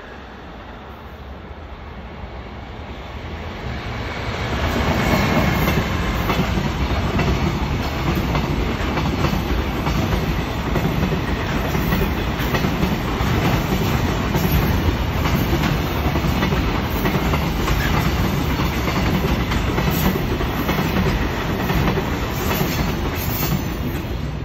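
A freight train hauled by an EF210 electric locomotive passes, followed by a long string of container flat wagons. It grows louder over the first few seconds as the locomotive comes by, then the wagon wheels keep clacking over the rail joints in a steady rhythm.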